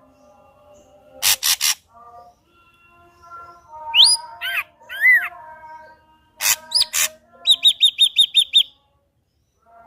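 Ashy drongo singing a varied song: a few harsh rasping notes, a pair of slurred whistles that rise and fall, and near the end a quick run of about seven evenly spaced chipping notes, followed by a short pause.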